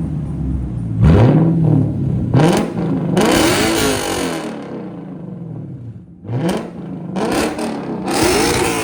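A car's V8 engine revved several times, its pitch rising and falling with each blip of the throttle.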